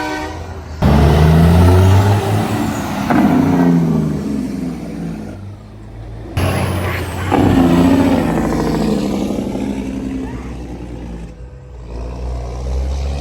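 Big truck engines running and changing pitch as trucks drive past, heard in several short clips cut together.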